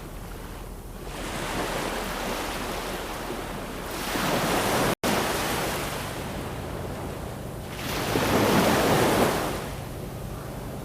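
Ocean waves breaking and washing on a shore, swelling louder twice. There is a split-second dropout to silence about five seconds in.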